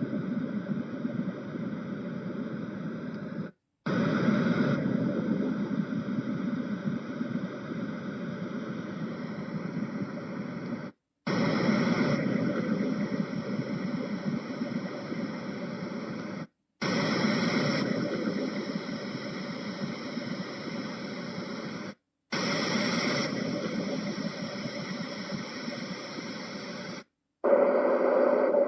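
Yogasleep Duet white noise machine playing a run of its built-in steady noise sounds, cutting out briefly five times as it switches from one sound to the next. Each sound starts a little louder and eases off, and the last one is less bassy than the rest.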